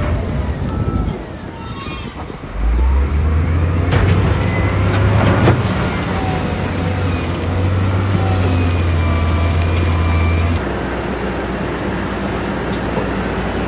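Heavy diesel engine of earthmoving machinery running. It dips about a second in, comes back louder near three seconds as a steady low drone, and drops to a lower level about ten seconds later. A few sharp clanks sound over it.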